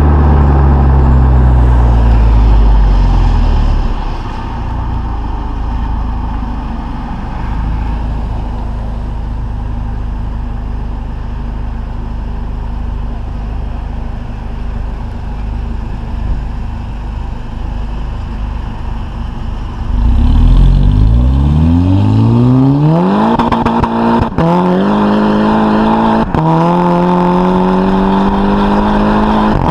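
VW Mk5 GTI's turbocharged 2.0-litre four-cylinder through a 3-inch catless downpipe and stock cat-back exhaust. Revs fall away over the first few seconds, the engine runs at a lower steady note for a while, then it accelerates hard from about two-thirds of the way in, the pitch climbing through two quick DSG upshifts near the end.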